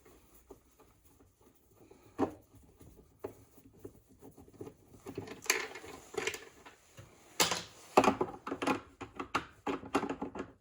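Hands working on the plastic housing of a Bissell floor scrubber during teardown: scattered faint clicks at first, then from about halfway a busy run of irregular plastic clicks and knocks as the parts are handled and pried at.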